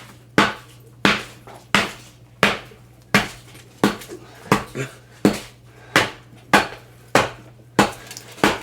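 Repeated heavy blows striking a box as it is smashed open: about thirteen evenly paced hits, roughly one and a half a second, each with a brief ringing clang.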